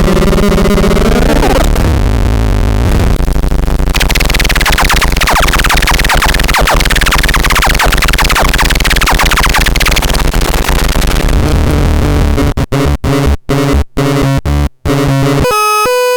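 Harsh electronic synthesizer noise from the MATRAXON C1: a thick drone of layered tones gives way, about four seconds in, to a dense hissing wash full of quick falling pitch sweeps. Near the end the sound chops on and off in a stuttering pattern, then settles on a higher steady tone.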